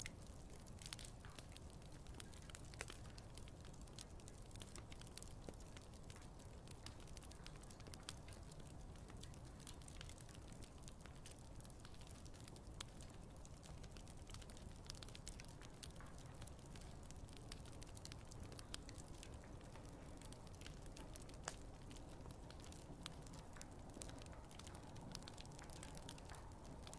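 Wood fire crackling: frequent small, sharp pops and snaps over a faint, steady low rumble of the flames.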